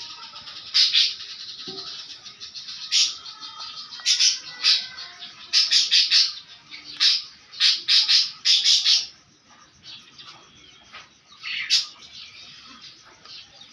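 Pet lovebirds calling with loud, shrill chirps in quick runs, busiest between about four and nine seconds in, then a single call near the end.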